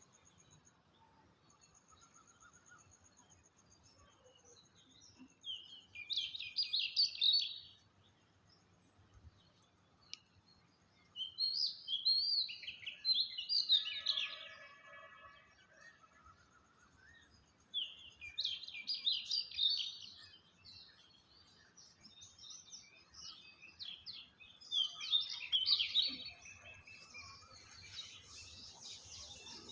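Wild birdsong: four bursts of rapid, high chirping notes a few seconds apart, over a faint steady high-pitched trill.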